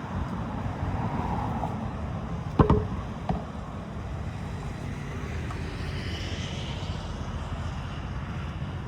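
Steady low outdoor rumble, with a sharp knock about two and a half seconds in and a smaller knock a moment later.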